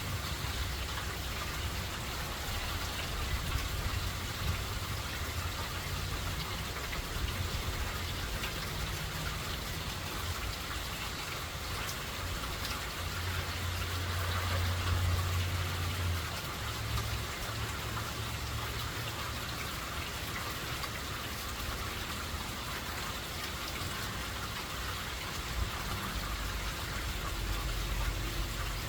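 Steady rain from Hurricane Helene falling without a break. Beneath it is a low rumble that comes and goes, strongest about halfway through and again near the end.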